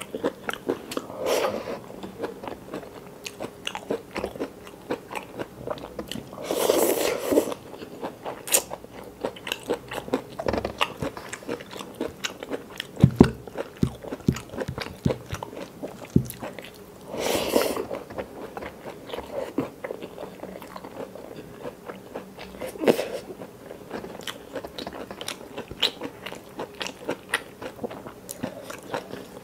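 Close-miked chewing and biting of someone eating curry and rice by hand: a steady run of short wet smacks and crunches, with two longer, louder rushes about seven and seventeen seconds in.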